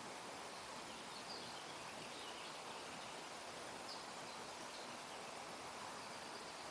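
Quiet outdoor ambience: a steady faint hiss with a few faint, short bird chirps scattered through it.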